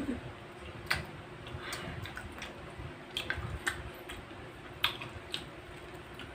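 Eating noises: scattered wet mouth smacks and clicks of chewing, about half a dozen, over a faint steady hum.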